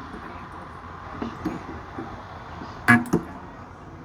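Sunko 709A battery spot welder firing through nickel strip onto 18650 cells: a pair of sharp snaps about a quarter second apart, about three seconds in, after a few faint ticks.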